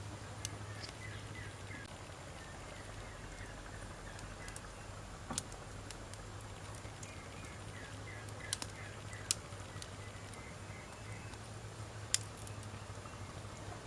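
Wood fire crackling: burning logs give sharp pops every few seconds, two in quick succession about halfway through, over a steady low hum.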